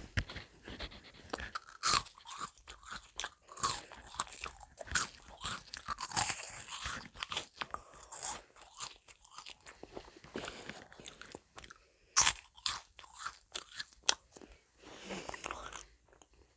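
Crisp meringue cookies crunching and crackling as they are bitten and chewed close to the microphone, in many quick sharp bursts.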